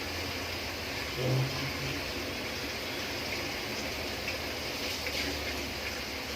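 Chopped onions frying in hot oil in a pot: a steady sizzle with small scattered crackles. A brief low sound comes about a second in.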